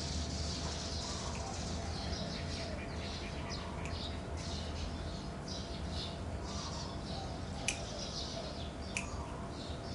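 Small birds chirping repeatedly in short high calls over a steady low hum, with two sharp clicks near the end.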